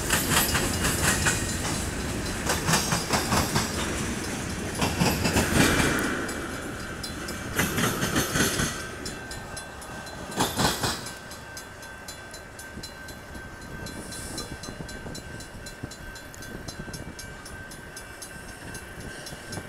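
Wheels of a freight train's last cars clattering over the rail joints, fading away about ten seconds in as the end of the train passes. After that a grade-crossing bell keeps ringing steadily while the crossing signals flash.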